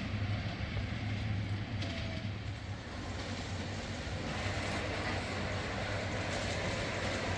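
Ride-on miniature railway train running along the track, heard from on board: a steady low hum over an even rumble of wheels on rail.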